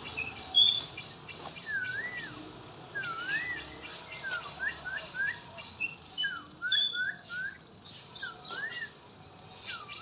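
A murai songbird singing: clear whistled notes that swoop up and down, repeated in short runs, with brief higher notes above them and a fast faint ticking behind.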